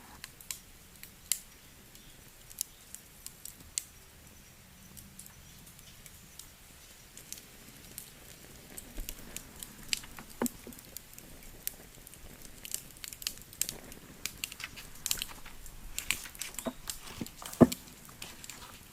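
Wood fire crackling: irregular sharp snaps and pops over a faint background, getting busier about halfway through, with one loud pop near the end.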